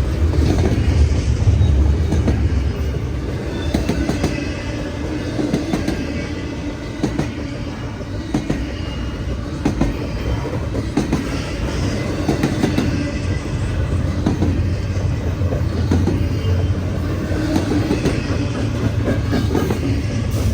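CN freight train rolling past at close range, its wheels clattering steadily over the rail joints with a low rumble and a faint squeal of wheels.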